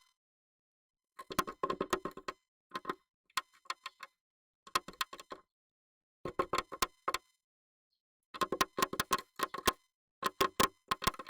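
Rapid clicking and tapping inside a wooden nest box, in short bursts with silent gaps: a Japanese tit pecking and scrabbling at the wood with its beak and claws.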